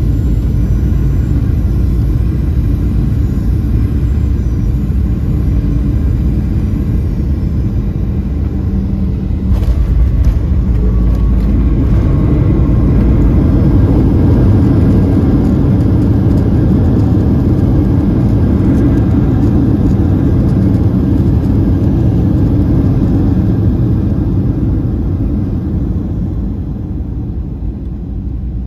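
Jet airliner cabin rumble during landing: steady engine and airflow noise, a sudden jolt about ten seconds in as the wheels touch down, then the noise builds louder for several seconds with reverse thrust and braking before easing off near the end as the plane slows.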